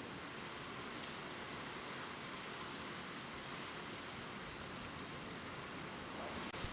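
Gentle rain falling on leaves, heard as a steady even hiss with now and then a single louder drop ticking, the clearest about five seconds in.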